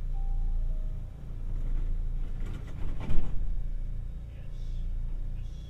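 Tokyu Setagaya Line 300 series light-rail car running, heard from inside: a low rumble from the wheels and running gear that swells and fades, with a short clattering rattle about three seconds in.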